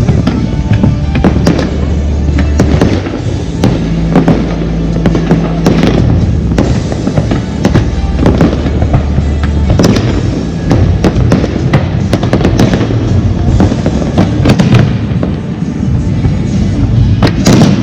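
Fireworks display: many close-spaced bangs and crackles from aerial shells, with music playing along with it, heavy steady bass notes underneath.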